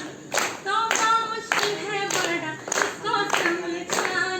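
A group of people singing together unaccompanied while clapping their hands in a steady beat.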